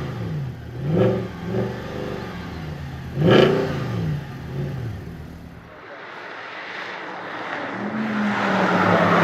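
Mercedes C63 AMG Black Series 6.2-litre V8 being revved in short blips, each rising and falling, the strongest about three seconds in. The sound cuts off abruptly about six seconds in, and then a steadier engine note builds and grows louder near the end.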